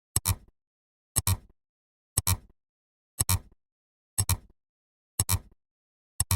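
A sound effect of a sharp double click, two quick clicks a tenth of a second apart, repeated exactly once a second, seven times.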